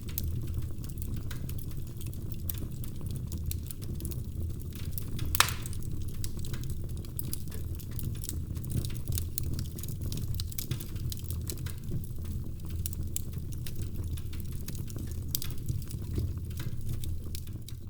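Wood fire crackling in a fireplace: a steady low rumble of flames with frequent small crackles and one louder pop about five seconds in.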